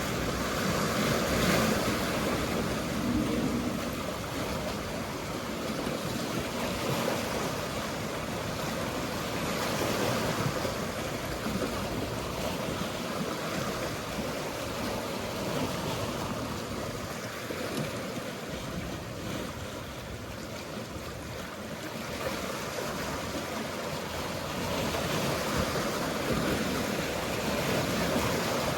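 Mediterranean sea waves washing on the shore, a steady rush that swells and eases over several seconds, with wind buffeting the microphone.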